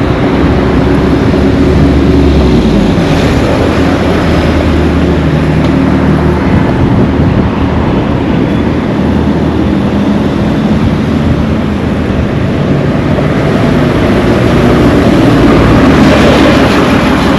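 Motor vehicle engines running on a street: a loud, steady mix of engine hum and road noise, with the engine tones rising and falling as vehicles move.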